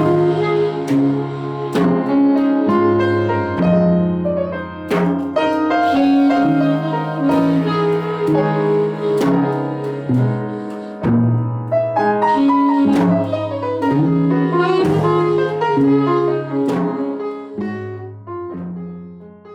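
Instrumental jazz: piano chords over a bass line with a melody on top, fading out near the end.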